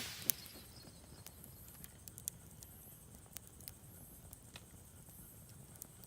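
Campfire wood crackling, with irregular sharp pops and snaps over a low, steady sound of burning; one louder pop comes just after the start.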